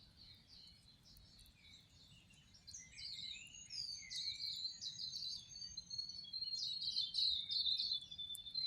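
Several birds singing, with overlapping high chirps and whistles that are faint at first and grow louder from about three seconds in.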